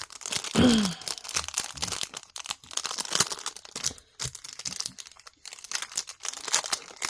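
Plastic bags and packing crinkling and tearing as jewelry is rummaged out of a box lot, in dense irregular rustles. A short falling tone rises briefly above it about half a second in.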